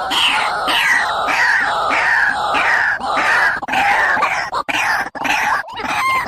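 Bird calling: a rapid series of loud, harsh notes, each falling in pitch, repeating a little under twice a second. The notes grow more irregular in the second half, with sharp clicks mixed in.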